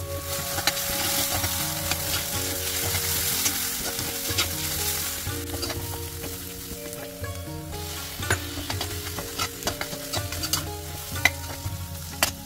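Chopped onions sizzling in hot oil in a metal pan while being stirred with a metal spoon. The sizzle is strongest in the first half; later the spoon's scrapes and clinks against the pan stand out more.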